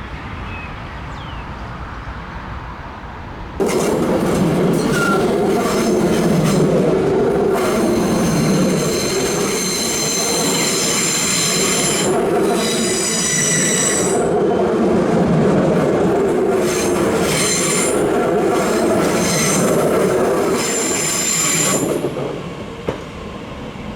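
A train rounding a tight curve, its wheel flanges squealing hard against the rails in high, wavering tones over the rumble of the wheels on the track. It starts suddenly about four seconds in, squeals in two long spells, and drops away near the end.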